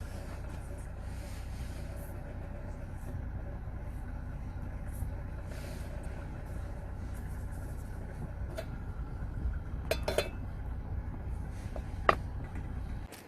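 Steady low vehicle engine rumble, with a few sharp metallic clinks in the second half, the loudest near the end.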